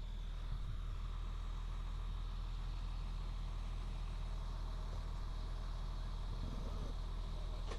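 Heavy truck engine idling steadily, a low even hum.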